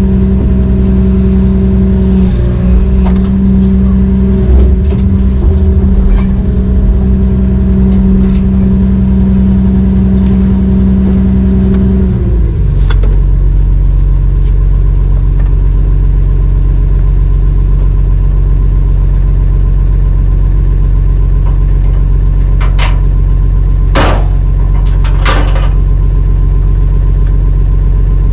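Heavy diesel engine of a Brøyt X21 excavator running at raised revs, then dropping to a lower steady idle about twelve seconds in. A few sharp knocks come near the end.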